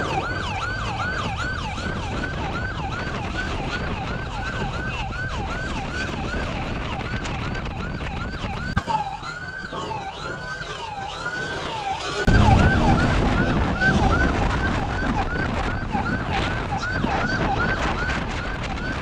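Police car siren wailing in fast yelp mode, sweeping up and down about three times a second, with the pattern briefly changing in the middle. A loud low rushing noise joins about twelve seconds in and stays under the siren.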